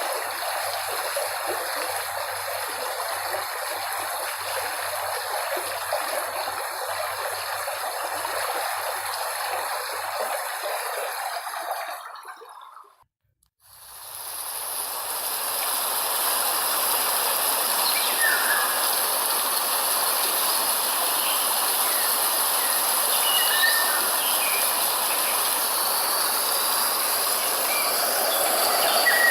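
Steady rushing noise of a running stream, fading out about twelve seconds in. After a brief silence a second steady rushing noise fades in, with a few short chirps over it near the middle and end.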